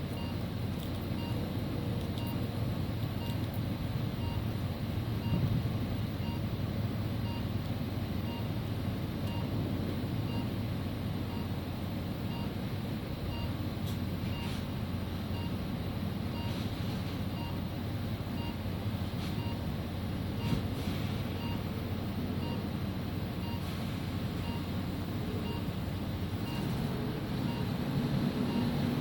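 Lorry engine running steadily with a low rumble, with faint short beeps repeating at an even pace of roughly one a second.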